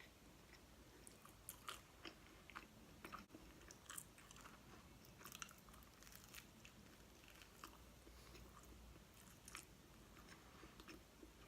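Faint mouth sounds of someone chewing barbecue chicken and bacon pizza: irregular small wet clicks and soft crunches.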